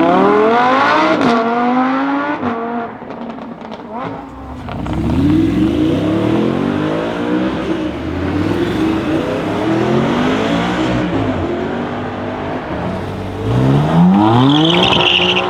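Lamborghini Huracán's V10 engine revving and accelerating hard: a rising rev at the start, then several rising pulls one after another from about five seconds in as it climbs through the gears, and another sharp rise near the end.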